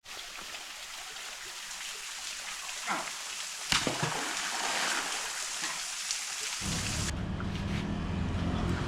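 A steady rain-like hiss with two sharp knocks about three and four seconds in. Near the end, a low steady engine-like hum comes in and the hiss drops away.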